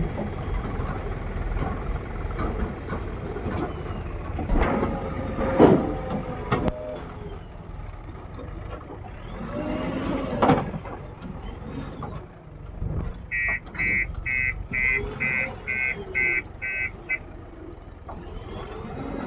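Backhoe loader's diesel engine running at a work site, with a few sharp clanks in the first half. In the second half a reversing alarm beeps about nine times, roughly twice a second.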